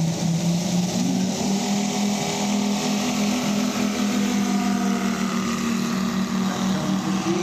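Engine of a large radio-controlled model airplane running steadily, its pitch lifting slightly about a second in.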